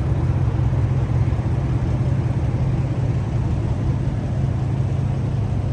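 A car engine running steadily with a deep, low exhaust rumble, loud enough to stand out.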